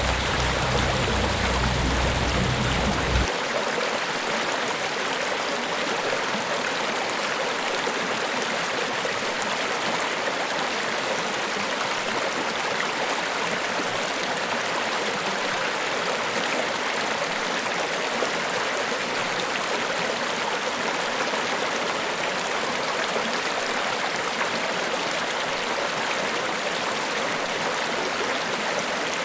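Niagara Falls, water rushing in a steady roar. A deep rumble under it cuts off abruptly about three seconds in, leaving the even rush of falling water.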